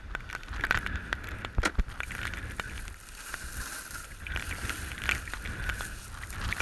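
Irregular clicks, knocks and rustling of gear being handled, over a low rumble of wind on the microphone.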